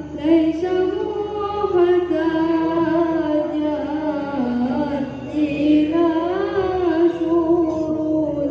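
A man's voice singing a devotional chant, one voice drawing out long, ornamented notes that waver and bend in pitch.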